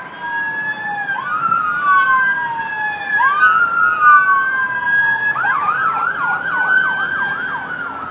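Emergency vehicle sirens with at least two overlapping wails rising and falling slowly against each other. About five seconds in, one switches to a fast yelp.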